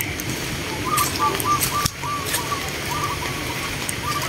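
A bird calling a quick series of short, clear notes at one pitch, about four a second, with a brief break and more notes near the end. Under it runs a steady hiss of rain.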